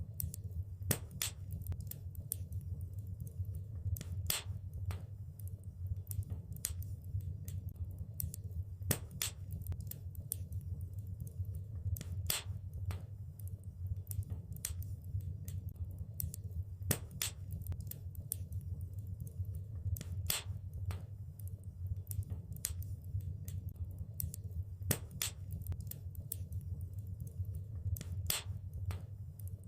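Wood fire in a fireplace crackling: irregular sharp pops and snaps, a few much louder than the rest, over a steady low rumble of the burning fire.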